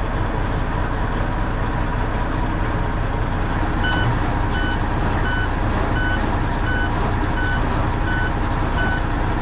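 Diesel semi-truck engine idling steadily. From about four seconds in, an electronic warning beep starts repeating about one and a half times a second.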